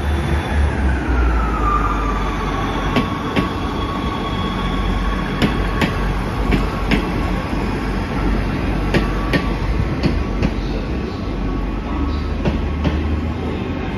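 Passenger trains moving along a station platform: a low engine rumble, a whine that falls in pitch about a second in and then holds steady, and wheels clicking over rail joints in pairs.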